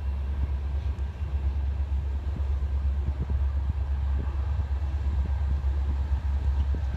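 Low, steady rumble of an approaching CN diesel freight train, still some way down the track.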